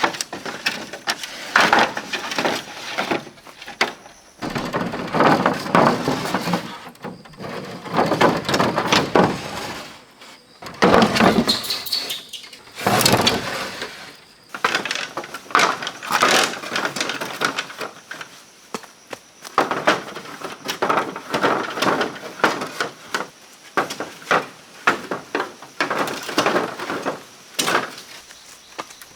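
Bamboo and wood being handled and worked by hand: irregular cracking, snapping, knocking and rustling in quick runs with short pauses, and one sharper crack about halfway through.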